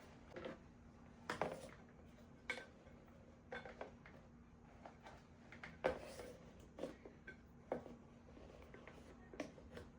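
Scattered light clicks and knocks of household objects being handled and set down, about a dozen over the stretch, some with a short ring, over a faint steady hum.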